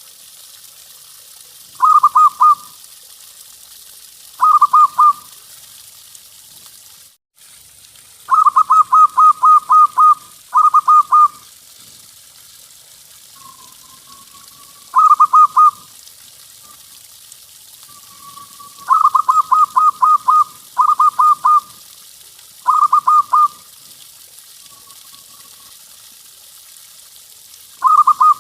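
Zebra dove (perkutut) cooing: short phrases of quick, rapidly pulsed notes, repeated every few seconds, some phrases longer with many notes, over a steady background hiss.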